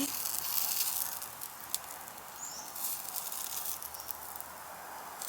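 Food frying in a pan, a steady sizzle, with a single sharp click about two seconds in.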